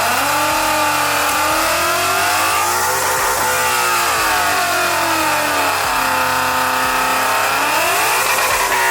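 An 800-horsepower Ford Mustang's engine revs hard and holds high revs. Its pitch climbs at the start, peaks about three seconds in, sinks lower around six to seven seconds, then climbs again near the end.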